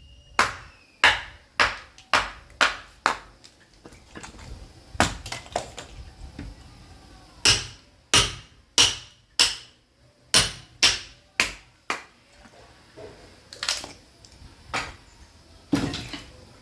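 Sledgehammer striking a steel chisel driven into a log to split firewood, sharp ringing blows about half a second apart in runs of three to six with short pauses between.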